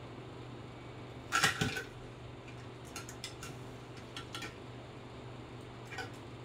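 A brief clatter of small hard objects knocking together about a second and a half in, then several light clicks and taps, over a steady low hum.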